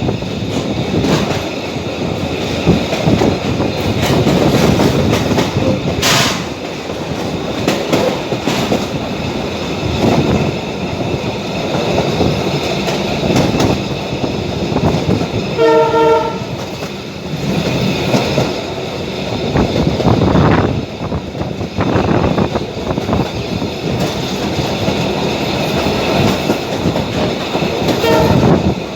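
Abu Qir line passenger train running along the track with a steady rumble and rattle of wheels over rail joints. A short horn blast sounds about halfway through, and a fainter one near the end.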